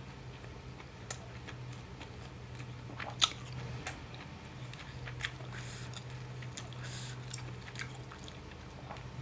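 A person eating rice and chicken: wet chewing and biting with scattered sharp clicks, the loudest about three seconds in, over a low steady hum.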